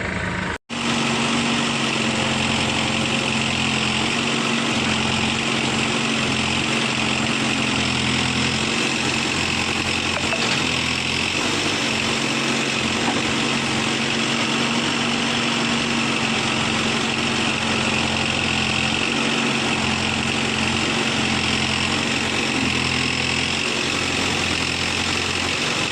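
Heavy diesel machinery engine running steadily at a low, even speed. The sound cuts out for an instant about half a second in.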